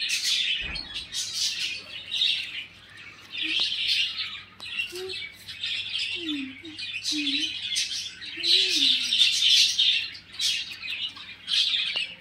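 Small birds chirping rapidly and continuously in a busy chorus, with a brief knock about a second in.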